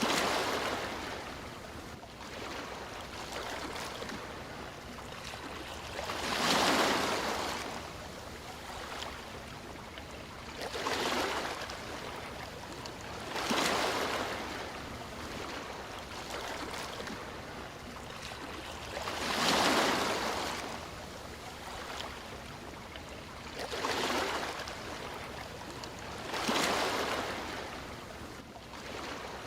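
Sea waves breaking and washing ashore: a steady hiss of surf with a swell every few seconds, seven in all.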